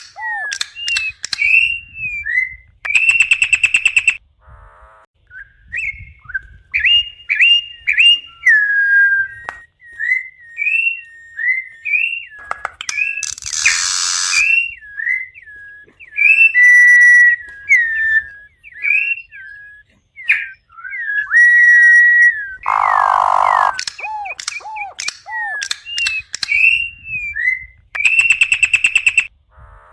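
Campo troupial (corrupião) singing: a run of clear whistled notes that slur up and down, broken by a few harsh, buzzy phrases.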